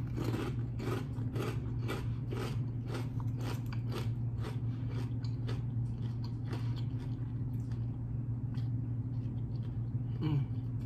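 Close-up chewing of crunchy kettle-cooked potato chips: a run of crisp crunches, several a second at first and thinning out later. A steady low hum runs underneath.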